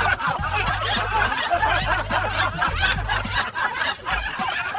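Several people laughing and chuckling at once, continuous and overlapping.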